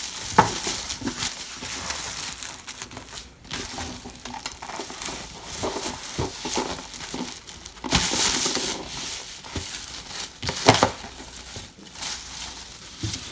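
Packaging of a dinosaur egg dig kit crinkling and rustling as it is opened by hand, with louder rustles about eight and ten and a half seconds in.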